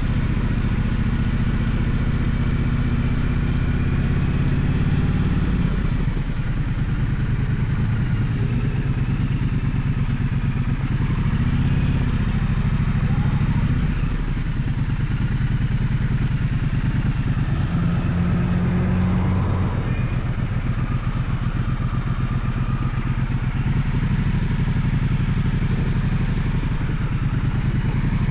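Gaokin GK1200 motorcycle engine running while ridden, its note rising and falling every few seconds with the throttle, over steady road and wind noise.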